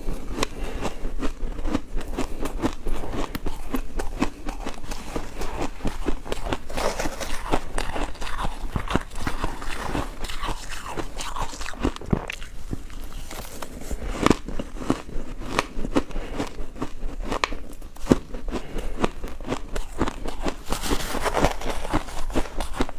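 Ice being bitten and chewed: continuous, irregular crunching with many sharp cracks as the pieces break between the teeth.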